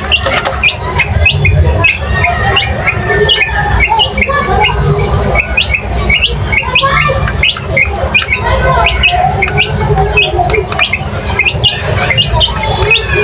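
A flock of birds chirping and squawking: many short, quick calls overlapping, several a second, over a steady low rumble.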